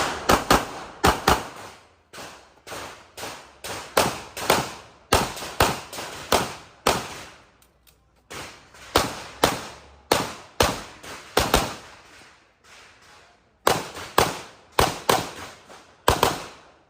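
CZ Shadow 2 pistol firing rapid strings of shots, mostly in quick pairs, with two brief pauses, around eight seconds in and around thirteen seconds in.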